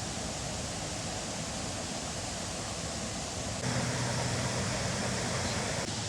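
Waterfall water rushing in a steady, even noise. It gets louder about two-thirds of the way in, then drops back just before the end. A faint low hum lies underneath.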